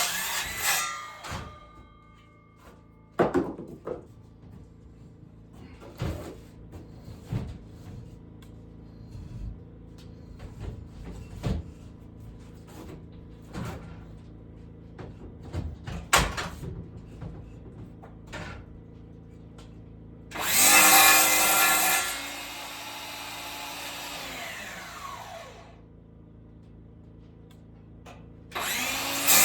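Wood being handled, with scattered knocks and clatter. About twenty seconds in, a power saw cuts for a second or two, then its blade spins down in a falling whine. Another cut starts near the end.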